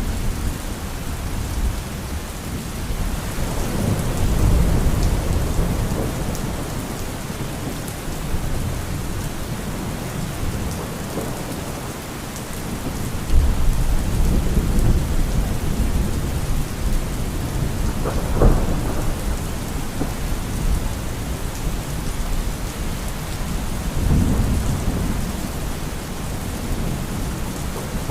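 Thunderstorm: steady heavy rain with rolls of thunder rumbling low several times. A sharper thunderclap comes about two-thirds of the way through.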